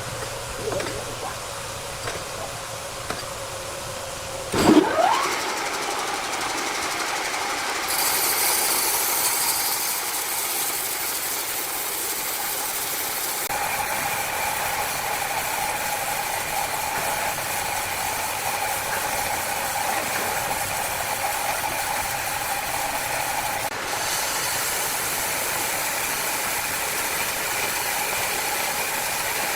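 Wood-cutting saw machinery running steadily, a mechanical noise carrying a steady whine. About five seconds in there is a brief loud rising squeal.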